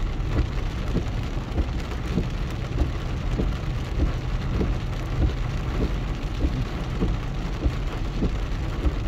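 Steady rain, with individual drops striking close by at irregular intervals over a low, constant rumble.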